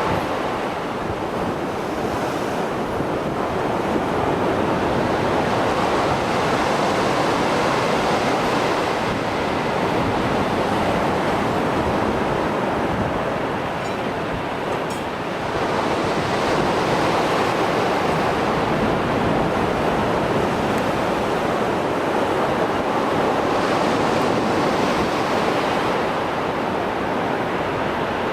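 Mediterranean Sea surf after a storm: waves breaking and washing ashore in a continuous rush that swells and ebbs every several seconds, with some wind on the microphone.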